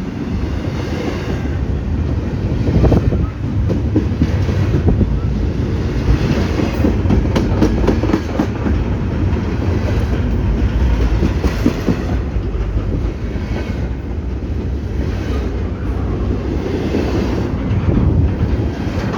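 A BNSF freight train of empty intermodal cars rolling past: a steady rumble with the wheels clacking, and wind buffeting the microphone.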